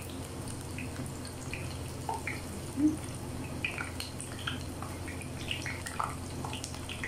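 Chapli kabab shallow-frying in hot oil in a frying pan over a low-medium flame: a steady sizzle scattered with small pops and crackles, and a short thud about three seconds in.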